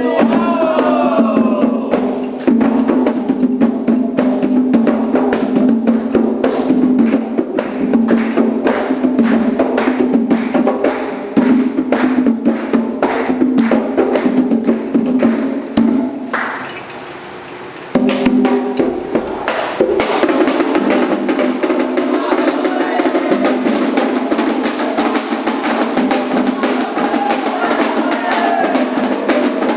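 Candomblé ritual drumming on atabaque hand drums, with a fast, even rhythm and voices singing over it. The drumming thins out and drops about halfway through, then starts again about two seconds later.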